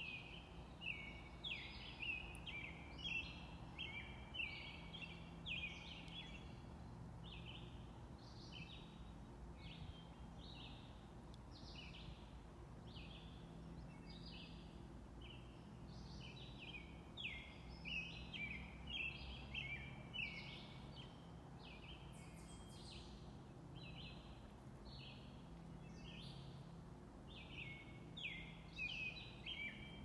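Several songbirds calling and singing at once, a dense run of short, high chirping notes that never lets up, over a faint steady low hum.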